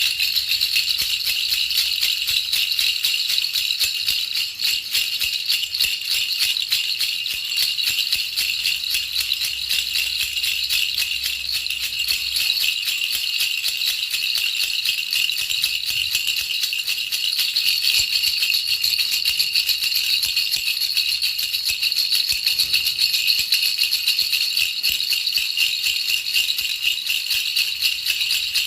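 Baby rattle shaken without a break: a dense, steady, high-pitched rattling of many small rapid clicks.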